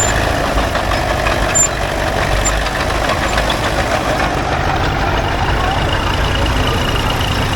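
Vintage farm tractor engine running steadily at low speed, a continuous low rumble; a faint steady high tone joins about five seconds in.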